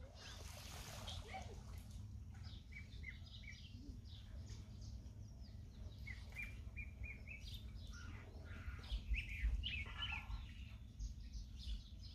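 Small birds chirping in short, repeated calls, over a low rumble of wind on the microphone that is strongest about nine seconds in.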